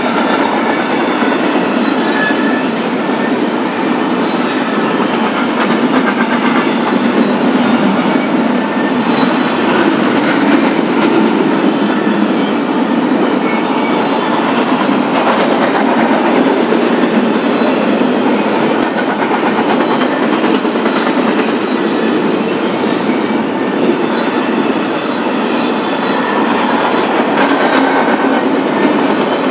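Intermodal freight train rolling past at speed: a steady, loud rumble of steel wheels on rail with clickety-clack over the joints, and a faint high squeal a couple of times.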